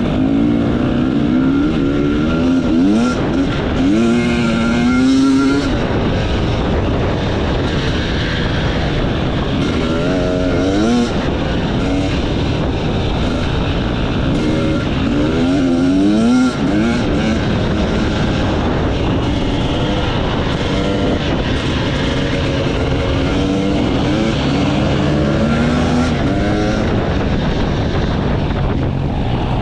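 Enduro motorcycle engine running hard off-road, its revs rising and falling again and again as the throttle is worked and gears change, over a steady rush of wind and ground noise.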